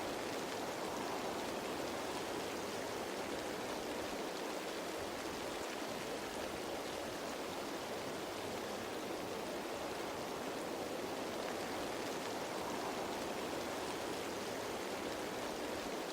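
Steady rain falling on leaves: an even, unbroken hiss with no change in level.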